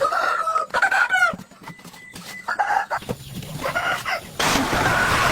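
Chickens calling, several short wavering clucks and crow-like calls in a row. Near the end a steady rushing noise starts and covers them.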